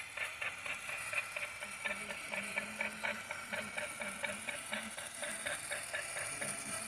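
A small machine clicking rhythmically and evenly, at about five clicks a second.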